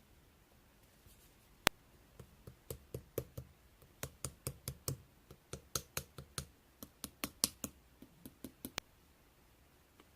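An irregular series of light, sharp taps or clicks, about three to four a second, starting about two seconds in and stopping about a second before the end.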